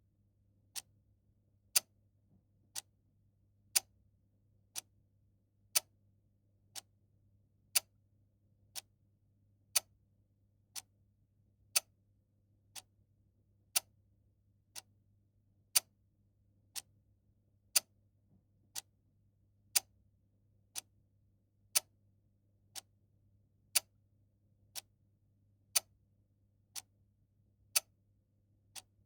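Mechanical clock ticking steadily at about one tick a second, the ticks alternating louder and softer in a tick-tock pattern, over a faint low hum.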